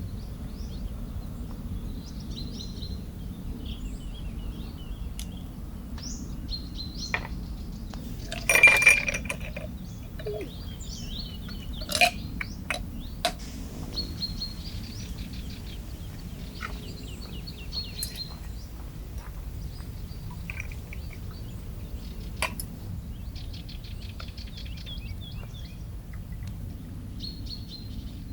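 Birds chirping repeatedly over a low, steady background noise, with a short burst of clinking about nine seconds in, the loudest sound, and a few sharp clicks around twelve to thirteen seconds.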